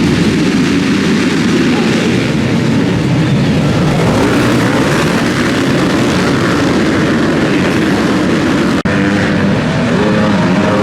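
Several motocross motorcycle engines running loud and revving, the pitch rising and falling with the throttle, with a momentary break nearly nine seconds in.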